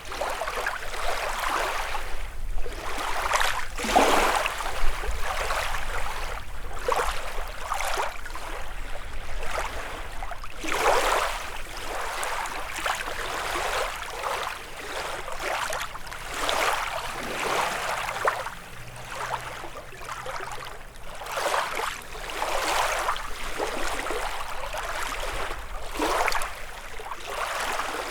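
Small lake waves lapping and splashing on the shore in an irregular stream of surges, one every second or two.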